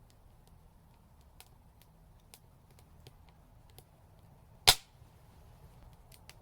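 Wood fire crackling softly with scattered small ticks, and one loud, sharp pop from the burning wood about three quarters of the way through.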